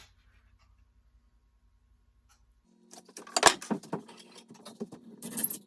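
Near silence for over two seconds, then a run of clicks and knocks from tools and an axe handle being handled on a workbench, over a faint low hum. The loudest is a sharp knock about three and a half seconds in.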